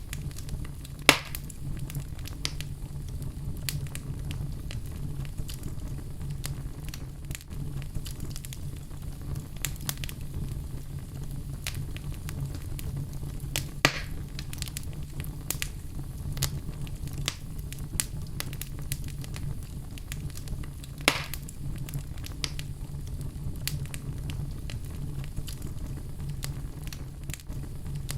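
Wood fire burning in a fireplace, a steady low rumble with scattered crackles and three louder pops, about one, fourteen and twenty-one seconds in.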